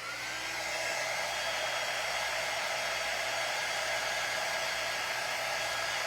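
Handheld hot-air dryer running steadily to dry fresh craft paint. It spins up in the first second after being switched on, then holds an even blowing whoosh.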